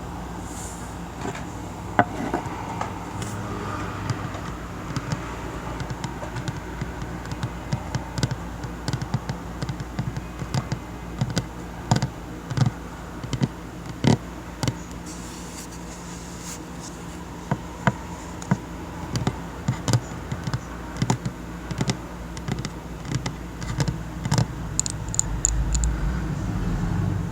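Slow tapping on a table: irregular single taps and short runs of taps, over a steady low background hum.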